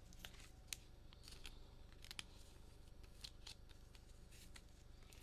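Trading cards being handled and flipped through by hand: faint, irregular sharp clicks and short slides of card against card.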